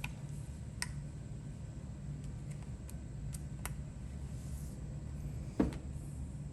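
Faint, scattered metal clicks from a hand ratchet's parts being handled and refitted, with one louder knock about five and a half seconds in, over a steady low hum.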